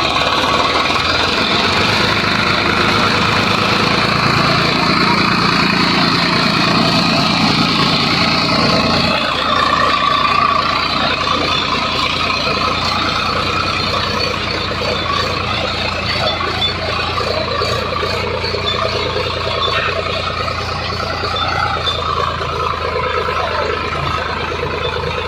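Swaraj 744 XT tractor's diesel engine running steadily; about nine seconds in its higher-pitched part drops away and it settles to a slightly quieter, lower note.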